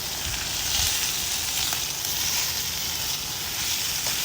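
Bacon frying in a pan, a steady sizzle.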